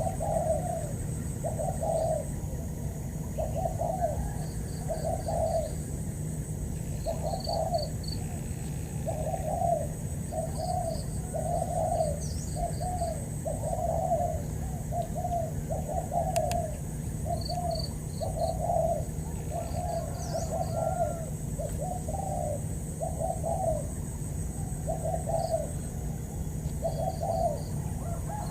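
Spotted doves giving a steady run of repeated cooing phrases, about one to two notes a second throughout, with faint chirps and a constant high-pitched insect-like hiss behind them.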